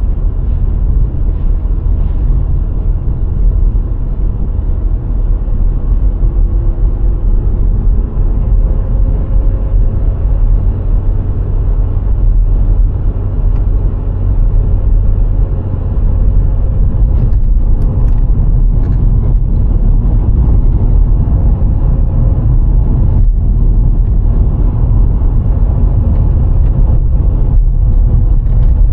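A VW Golf IV 1.6 on the move: a steady low rumble of road and wind noise with a faint engine note that drifts slightly in pitch. There are a few short knocks in the second half, and the noise gets a little louder about halfway through.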